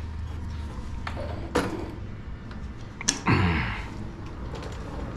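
Sudden knocks and clanks of metal parts on a garden tiller being handled during repair. Two louder knocks come about a second and a half and about three seconds in, the second followed by a short ring that falls in pitch, over a low steady hum.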